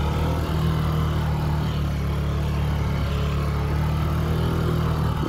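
Honda CB150F motorcycle's 150 cc single-cylinder engine running steadily at a constant pitch while the bike is stuck in thick mud, its front wheel locked by packed mud.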